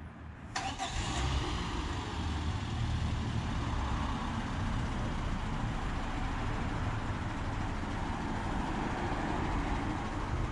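A motor vehicle's engine starts about half a second in, then keeps running steadily.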